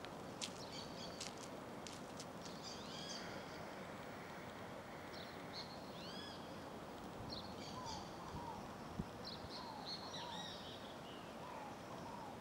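Small birds chirping, with repeated short arching high chirps and, later on, lower slurred notes, over a faint steady background hiss. A single short knock about nine seconds in.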